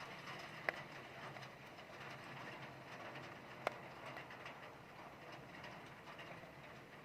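Steady rain hiss, full of faint tapping drops, with two sharper taps standing out, one about a second in and one near the middle.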